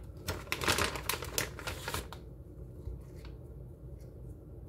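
Raw potato slices and chopped onion being handled and laid by hand into a cast iron skillet: a quick run of light clicks and rustles in the first two seconds, then quieter handling.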